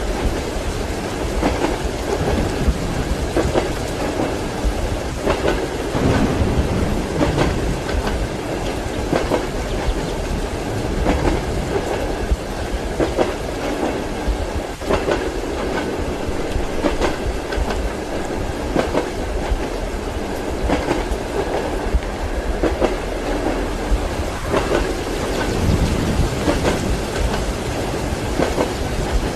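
Train ride heard from inside a compartment: a steady low rumble with the repeated clickety-clack of wheels over rail joints, and rain in the background.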